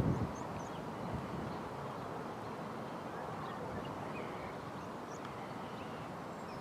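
Outdoor ambience: a steady rumbling hiss, likely wind on the microphone, with a few faint, scattered bird chirps.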